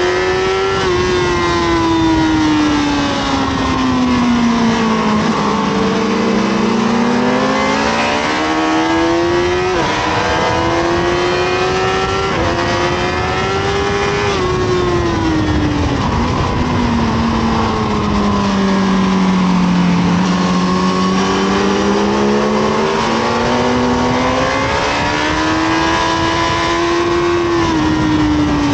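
Honda CBR1000RR Fireblade (SC57) inline-four engine at track speed, revving down and up through the corners, with a few sudden drops in pitch at the upshifts, under steady wind noise.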